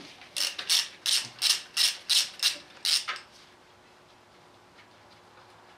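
A hand tool worked in about nine quick, even strokes, roughly three a second, stopping after about three seconds.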